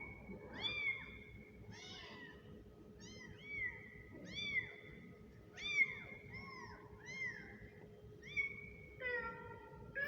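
Kitten meowing over and over: about a dozen short, high-pitched meows, each rising and falling, roughly one a second. A faint steady hum runs underneath.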